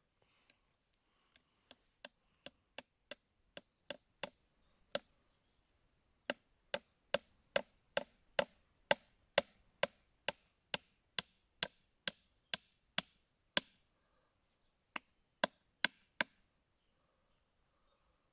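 Hammer driving nails into an oak bird box's roof: steady blows about two a second in three runs, each with a short metallic ring, the longest run in the middle.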